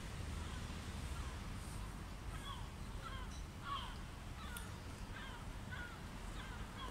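Birds calling: a string of short, repeated calls, several overlapping, over a low background rumble.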